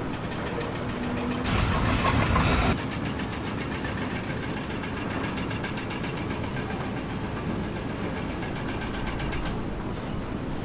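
A machine's engine running steadily with a rapid even ticking, and a louder rush of noise lasting about a second near the start.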